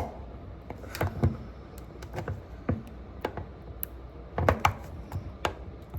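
Irregular sharp taps and knocks of a can of condensed milk being worked at by hand after a can opener failed to open it, with a cluster of louder knocks about four and a half seconds in.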